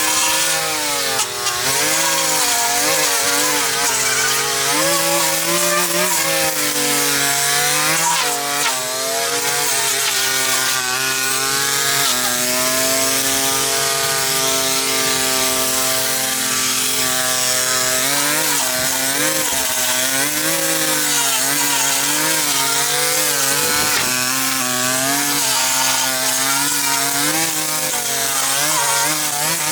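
Small engine of a power tool running continuously, its pitch rising and falling as it is throttled and loaded, then holding steady for several seconds midway.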